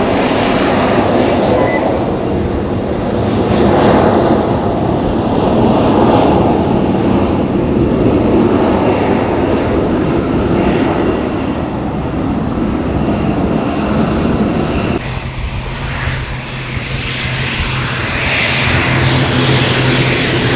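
Aircraft engines running, a loud, steady noise. About three-quarters of the way through it cuts off abruptly and gives way to a lower, steadier hum.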